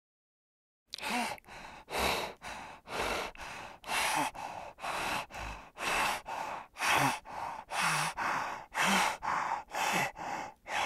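Spotted hyenas breathing hard in rhythmic huffs, about two a second, with a few short low grunts mixed in. The huffing starts about a second in.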